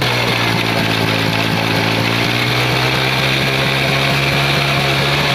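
Motorcycle engine held at steady high revs, its rear wheel spinning the flywheel of a stationary diesel pump engine to start it.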